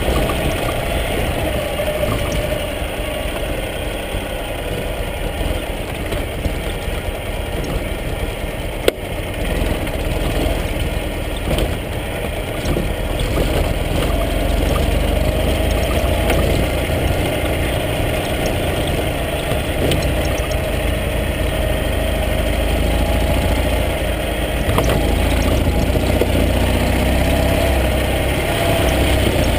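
Ural sidecar motorcycle's air-cooled flat-twin engine running steadily at low trail speed. There is a single sharp knock about nine seconds in.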